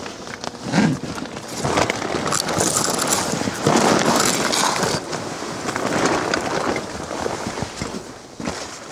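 Footsteps crunching through ice-crusted snow, an irregular run of noisy crunches.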